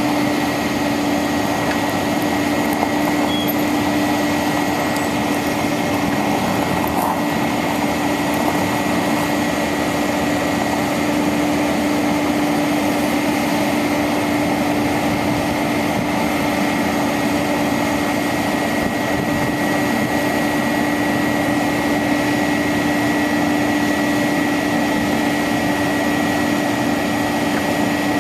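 1999 International 4900 bucket truck's diesel engine running steadily, with a constant whine over the engine noise.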